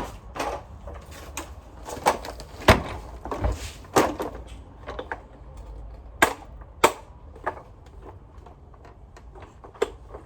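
Parts of a Sanitaire vacuum being handled during disassembly: irregular sharp clicks and knocks, coming thickly for the first several seconds and only now and then after that.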